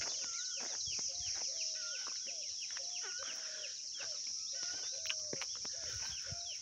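Many birds chirping and calling at once in quick, overlapping notes, over a steady high hiss.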